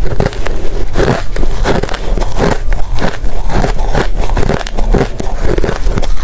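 Close-miked chewing of ice: rapid, irregular loud crunches and crackles, several a second, as the ice is bitten and ground between the teeth.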